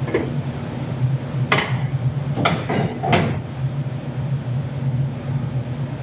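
Metal tools and parts knocking and clanking during engine-bay work: one sharp knock about a second and a half in, then three more in quick succession near the middle, over a steady low hum.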